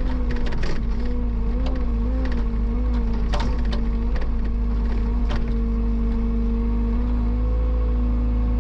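Excavator engine running steadily under load, its pitch wavering slightly as the machine works, with a few sharp knocks.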